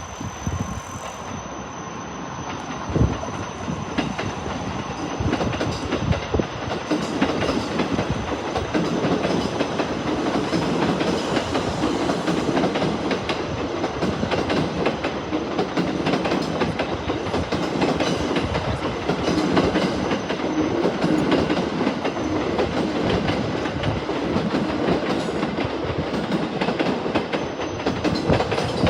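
Electric train running past on the track, its wheels clacking over the rail joints; the sound grows louder a few seconds in and stays loud.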